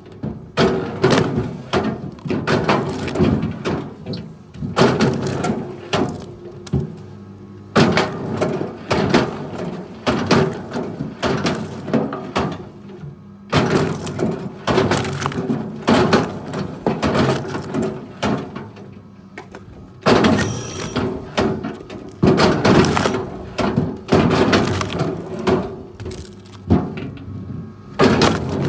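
Wood cracking and breaking in irregular, closely packed bursts of knocks and clatter, with a faint steady tone underneath.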